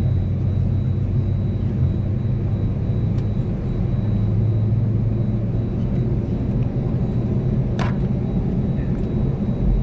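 Steady low drone inside an Airbus A320's passenger cabin on the ground after pushback, with one sharp click about eight seconds in.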